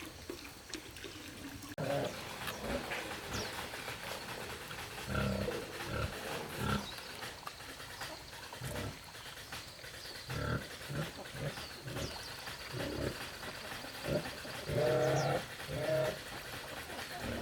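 Animal calls: a series of short, low grunts, some in quick runs and the strongest about two thirds of the way in, with a few faint, high, falling chirps between them.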